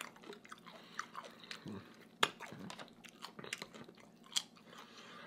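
Close-miked chewing while eating shrimp cocktail: quiet, wet mouth sounds with scattered soft clicks, and a sharper click a little over two seconds in.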